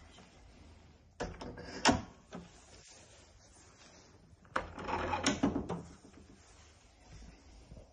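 Kitchen cabinetry being opened and then shut: two short bouts of sliding and clattering about three seconds apart, each with a sharp click.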